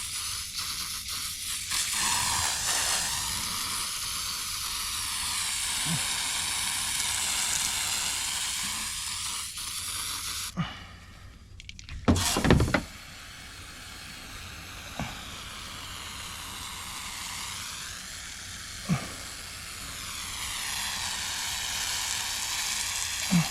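Heavy-duty foaming coil cleaner fizzing and crackling as it works into the dirty fins of an evaporator coil. The fizz cuts out briefly just before halfway, followed by a loud knock, with a few light taps later.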